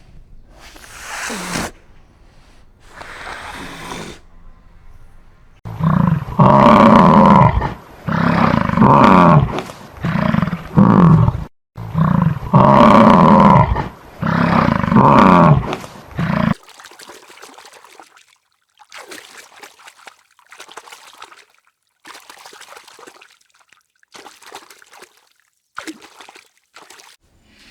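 A large farm animal calling loudly over and over in a run of long, pitched cries for about ten seconds, then fainter short sounds.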